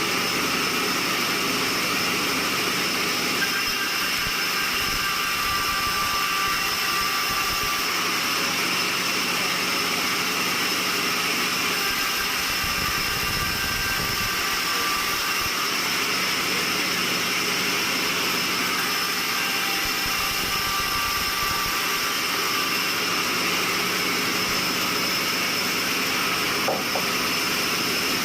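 Sawmill machinery running steadily: a constant hum with a high, even whine, with a small click near the end.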